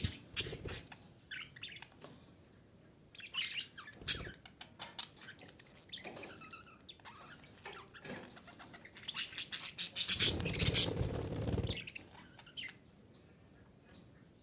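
Female budgerigar chirping and chattering in short irregular bursts, with a louder, busier flurry of calls about ten seconds in.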